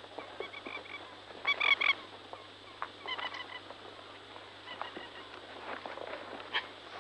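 Birds calling in short runs of quick, honking notes, loudest about a second and a half in and again around three seconds, with a few faint clicks.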